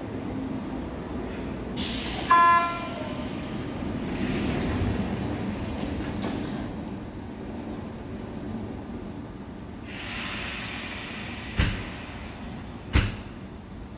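Electric commuter train pulling out of the station, its running noise steady. A short electronic beep sounds about two seconds in, and two sharp knocks come near the end.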